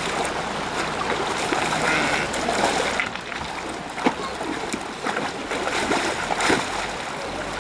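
Water splashing as sheep are washed by hand in a river, over the steady rush of the flowing stream.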